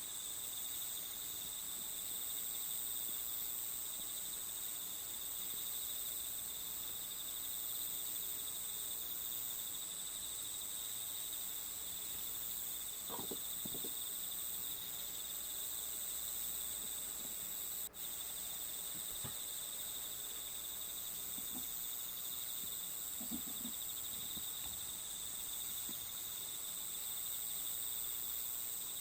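A steady insect chorus of cricket-like chirring, with a continuous high trill. A few soft short taps are heard faintly beneath it, and the sound drops out for an instant about two-thirds of the way through.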